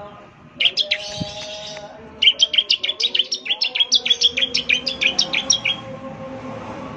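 Bar-winged prinia (ciblek) singing in fast runs of sharp, high chips: a short burst about half a second in, then a rapid string of chips from about two seconds until nearly six seconds in.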